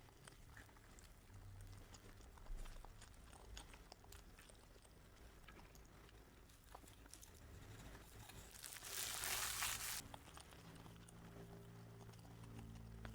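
Faint eating sounds of a person with fast food: scattered small clicks and crunches. About two thirds of the way in there is a louder noisy burst lasting over a second, and a low steady hum comes in near the end.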